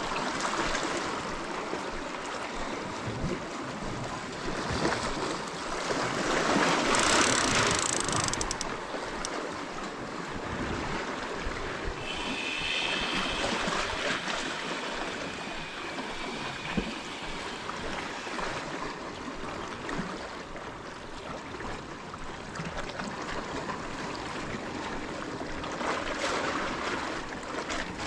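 Sea waves washing over rocks in a steady rush, with one surge swelling and breaking about seven seconds in and another near the end. A brief high-pitched whine comes about twelve seconds in.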